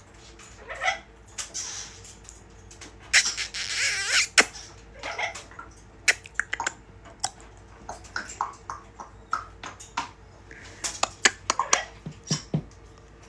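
African grey parrot vocalizing: a string of sharp clicks and short chirping calls, with one longer harsh, hissing squawk about three to four seconds in.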